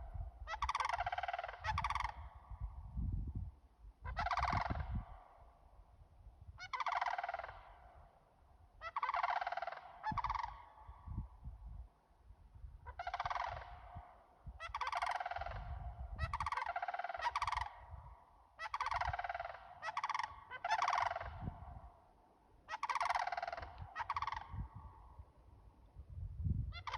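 Two large birds giving loud, harsh, rolling calls, about sixteen of them, one every one to two seconds and sometimes two in quick succession, over a low rumble.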